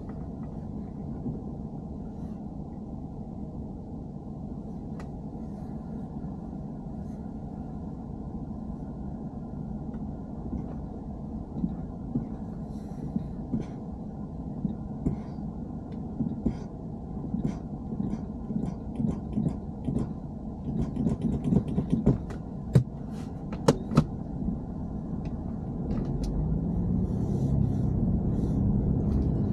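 Low, steady rumble inside a BMW E90 with sharp clicking and rattling ticks. The ticks come and go, grow more frequent from about halfway, and run quickly for a moment near 21 s. A few louder knocks follow, and the rumble gets louder near the end. The rattle is the abnormal noise the car is being checked for.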